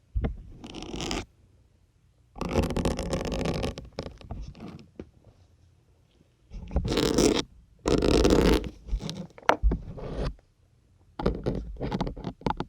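Syringes pushed one after another into a firm sponge, each stab a rasping, squelchy scrape lasting about a second, with short silences between them.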